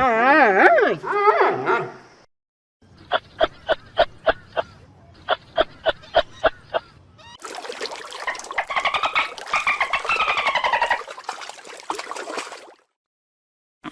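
A sequence of different animal calls: first a wavering call that rises and falls in pitch, then two runs of rapid pulsed calls at about four or five a second, then a longer, noisier call with sweeping pitch.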